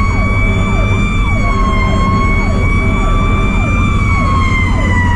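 Federal Q mechanical siren screaming at a steady high pitch, its pitch starting to fall near the end as it winds down. Underneath, a fainter siren sweeps down about twice a second, over the fire truck's engine rumble heard from inside the cab.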